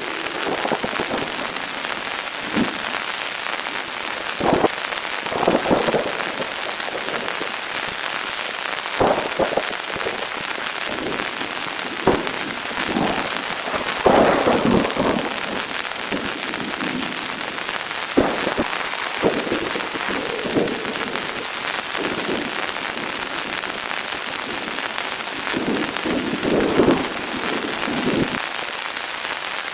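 Heavy rain falling steadily, with louder single drops knocking now and then at irregular moments.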